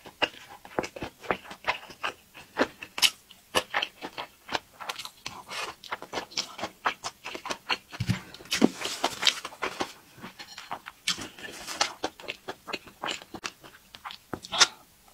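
Close-miked chewing and wet mouth sounds of someone eating dumplings and noodles: many small irregular smacks and clicks, with a longer, noisier wet stretch about eight to ten seconds in.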